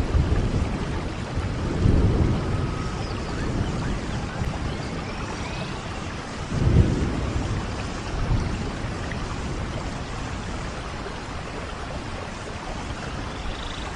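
Steady rain with low rolls of thunder, one swell about two seconds in and a louder one about seven seconds in.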